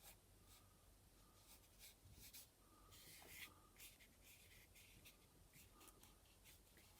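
Faint, scratchy rubbing of fingers on a canvas in short irregular strokes, working dried masking fluid off the painted surface.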